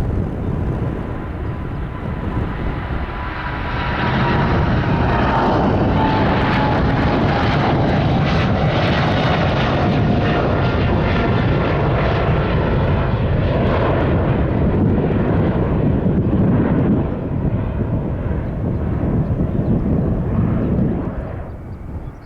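Jet airliner taking off, its engine noise growing louder about four seconds in and then dying away near the end, with a high engine whine slowly falling in pitch as it passes.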